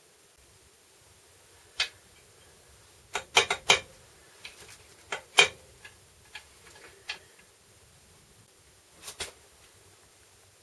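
Hard clicks and knocks of transfer case parts and tools being handled: a single click, then a quick cluster of four a second and a half later, scattered lighter ticks, and a close pair near the end.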